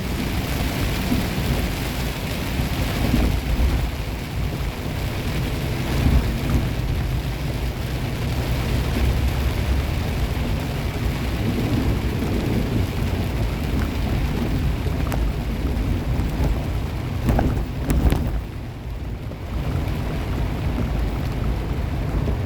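Thunder rumbling over rain beating on a semi truck's cab, with the truck's engine and road noise underneath. A few brief sharp knocks come near the end.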